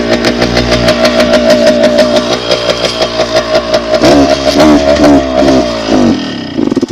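Dirt bike engine running steadily, then surging and sputtering unevenly from about four seconds in, and dying near the end: it has run out of fuel.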